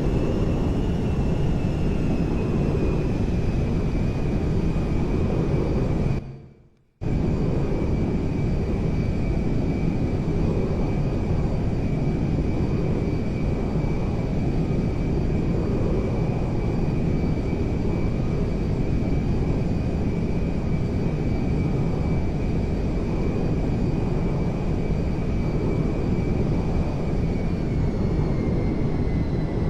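Aircraft engine noise: a loud, steady rumble with a high whine over it, the whine sliding slightly up and back down near the start and falling near the end. The sound cuts out for under a second about six seconds in.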